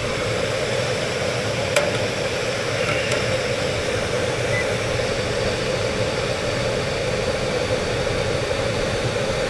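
Air handler blower running steadily on its high-speed tap, a constant airy hum. A faint click about two seconds in.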